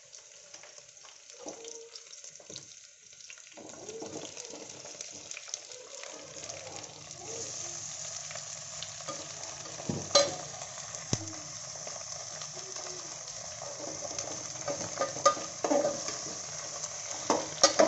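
Chopped green tomatoes frying in hot oil in an aluminium pot: a steady sizzle that builds a few seconds in, with a steel spoon stirring and clinking against the pot a few times.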